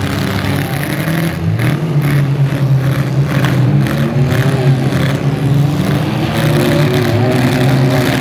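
Several demolition-derby cars' engines revving at once, their pitches rising and falling separately over a general din.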